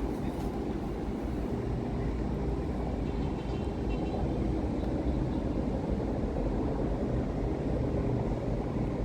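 Steady low vehicle rumble with a constant hum running through it.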